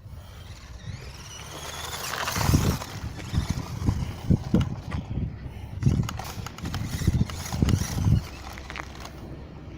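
Electric motor of a small toy RC monster truck whining and rising in pitch as it speeds up, followed by a run of irregular low thumps and knocks.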